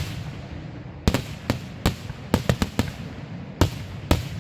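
Fireworks going off: a quick irregular series of sharp bangs, about ten in four seconds, several close together in the middle, over a low continuous rumble.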